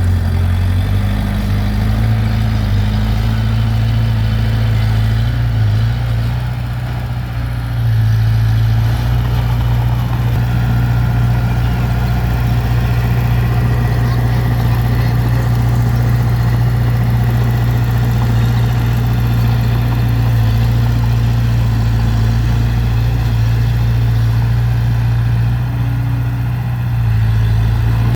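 Heavy diesel engine of earthmoving machinery running steadily with a low drone, easing slightly for a moment about six seconds in before picking back up.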